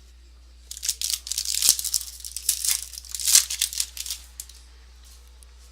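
A foil trading-card pack wrapper being torn open and crinkled, in irregular crackling rustles from about a second in until about four and a half seconds in.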